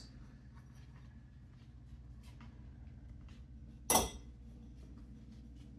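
Light clinks and taps of sink drain fitting parts being handled, with one sharp louder knock about four seconds in, over a low steady hum.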